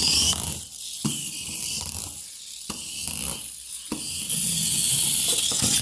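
A small toy rolled across a refrigerator door, its wheels giving a buzzing rattle with a few sharp clicks.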